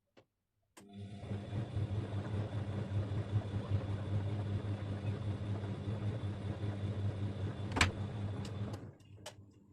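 Bosch Avantixx 6 washing machine's drum motor running through one tumble of the wash cycle: a steady hum that starts abruptly about a second in and cuts off near the end, with a sharp click shortly before it stops.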